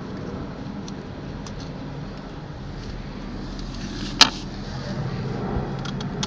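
Hand work on an outboard motor's parts, with faint ticks and one sharp metallic click about four seconds in, over a steady low hum.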